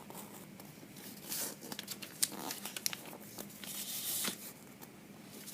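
A sheet of paper being folded and creased by hand: irregular crinkling and rustling with short, sharp crackles.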